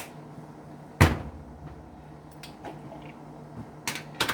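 One solid thump about a second in, then a few light clicks and knocks: kitchen containers being set down and picked up on a counter.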